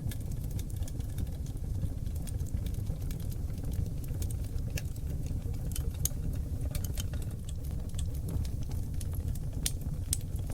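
Oak log fire burning in a fireplace: a steady low roar of flames under scattered sharp crackles and pops from the wood, which come more often in the second half.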